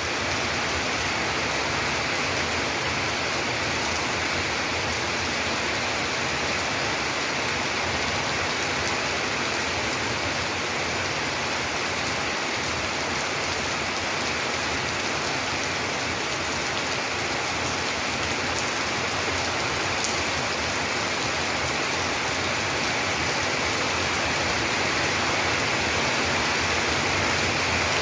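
Steady rain falling, an even unbroken wash of noise.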